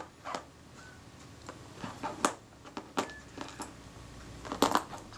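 Scattered light clicks and taps of small metal tools and parts being handled while a camera rangefinder is taken apart, with a couple of sharper clicks near the end.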